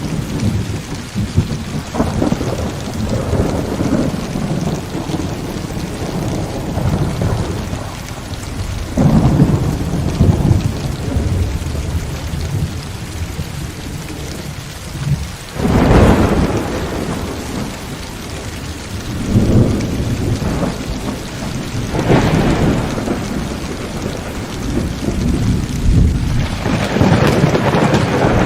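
Heavy rain falling steadily through a thunderstorm, with rolls of thunder rumbling in again and again; the sharpest, loudest crack comes about halfway through, and further rumbles follow in the second half.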